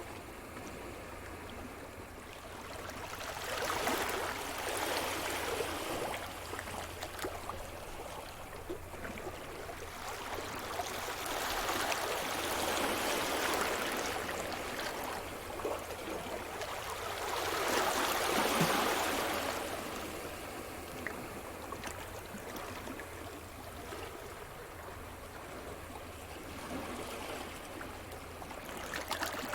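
Sea surf: waves washing onto the shore in three slow swells that rise and fall away, the loudest about two-thirds of the way through.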